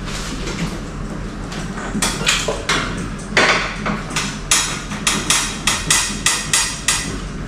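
Manual hospital bed's hand crank being turned to raise the backrest: a few knocks, then a steady run of sharp clicks, about three a second, from the crank mechanism.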